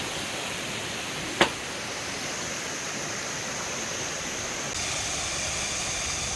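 Waterfall stream rushing steadily, with one sharp click about a second and a half in.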